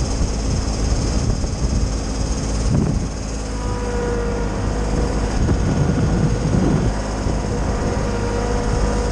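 Kioti sub-compact tractor running a Titan wood chipper, a steady mechanical drone, with a higher whine coming in about three and a half seconds in.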